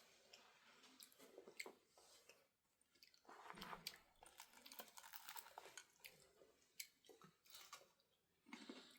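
Faint eating sounds: soft chewing with scattered small clicks and scrapes.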